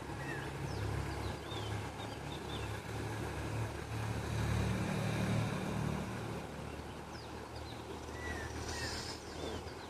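Short high chirps and slurred whistles of small birds over a steady low motor rumble, which swells about halfway through.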